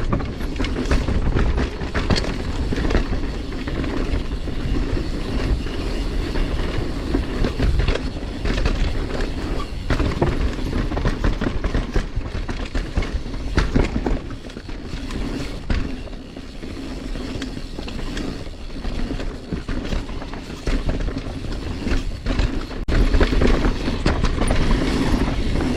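Mountain bike rolling fast down a dirt trail: a steady rumble from the tyres with frequent rattles and knocks from the bike over bumps, easing off for several seconds about two-thirds through.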